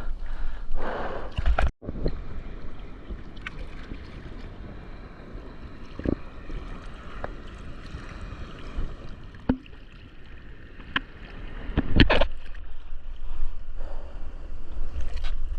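Ocean water sloshing and splashing around a surfer's GoPro, with a low wind rumble on the microphone. There are a few sharp splashes, and the splashing grows louder about twelve seconds in.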